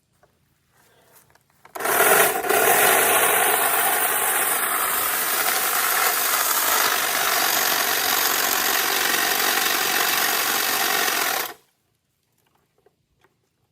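A power tool runs steadily for about ten seconds, starting two seconds in and stopping suddenly.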